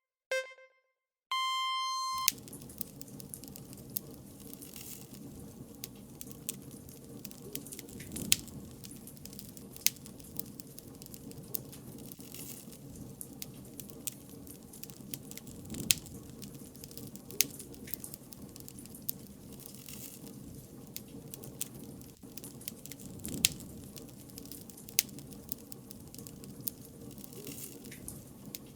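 A short electronic tone about a second in, then a wood campfire crackling steadily, with frequent sharp pops and snaps of burning wood.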